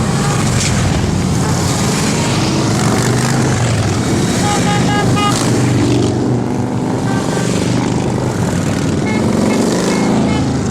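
Motorcycle engines of a group ride running together in a dense, steady rumble, with one engine's pitch rising near the end.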